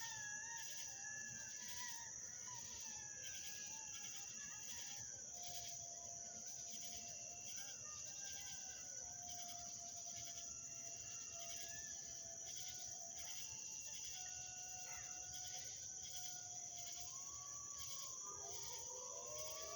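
Distant howling from a pack of canids, several wavering, overlapping howls that glide up and down in pitch, which the recordist takes for wolves. Under them runs a steady high trill of night insects.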